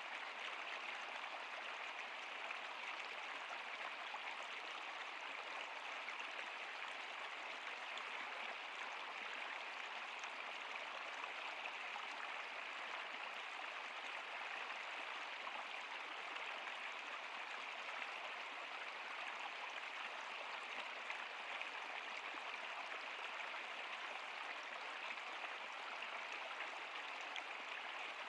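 River water flowing, a steady, even rushing that doesn't change.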